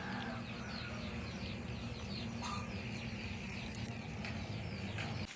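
A small bird chirping over and over, short falling chirps about three a second, over a steady low hum.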